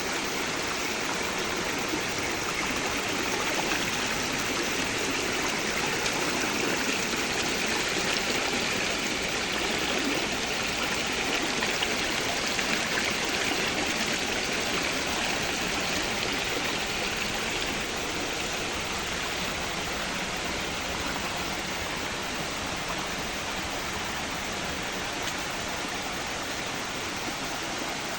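Stream water flowing and rushing steadily over rocks.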